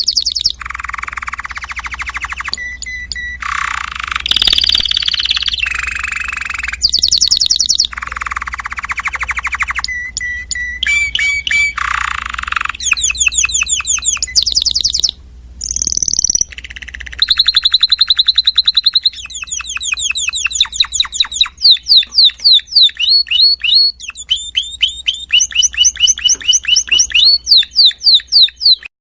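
Gelatik timbrado songbird singing a long, continuous song: stretches of fast, buzzy rolling trills alternate with rapid high notes, and in the second half come long runs of sharp, steeply falling notes repeated two or three times a second.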